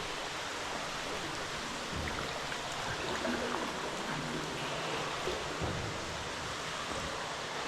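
Steady hiss of running water, trickling and splashing, with no distinct separate strokes.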